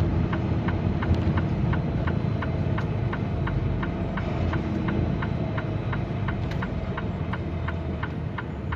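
Semi truck's diesel engine running at low speed, heard from inside the cab, with a sharp tick repeating about three times a second.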